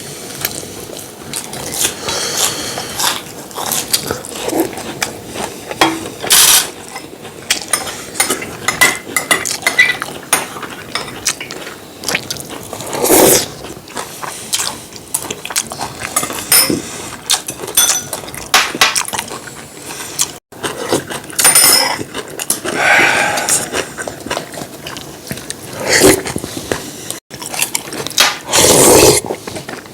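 Eating sounds at a meal table: metal utensils clicking and clinking against bowls and dishes, with several louder bursts of eating noise.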